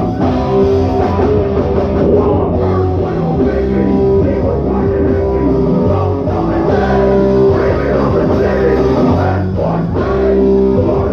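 Loud rock band playing live: guitars, bass and drums, with some singing.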